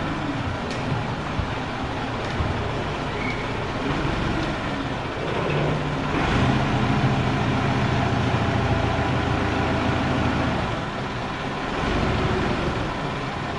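A vehicle engine running steadily, rising in pitch and loudness about five seconds in, holding, then easing back off near the end.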